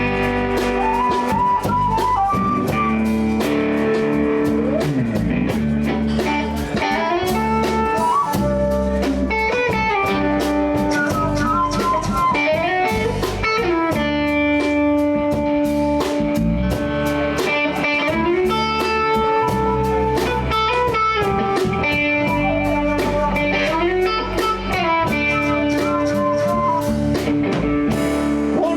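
Live blues band playing an instrumental passage, with electric guitar and bent, held lead notes over bass and drums.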